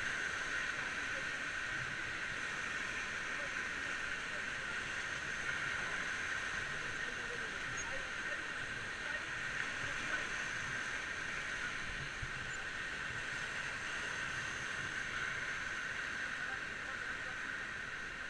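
Steady rushing of a fast river, an even hiss that holds without change.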